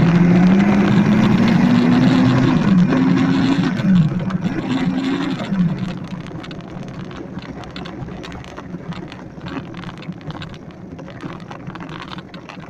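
Electric dirt bike's motor whining, its pitch rising as it speeds up over the first couple of seconds, then dropping and rising again twice. About six seconds in the whine fades, leaving a quieter rough rolling noise with scattered clicks.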